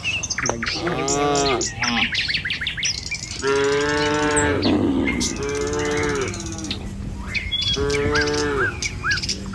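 Cattle mooing, four separate calls about a second each, with birds chirping throughout.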